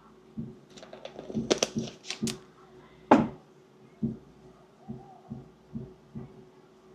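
Close taps and clicks of a scoop and cup being handled on a counter, the sharpest just after three seconds in. After that comes a run of dull thumps about every half second, from a toddler stomping around in the flat upstairs. A faint steady hum sits underneath.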